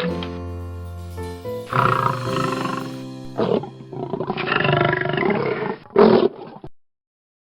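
Tiger roaring several times, long rough roars over background music, cutting off abruptly about a second before the end.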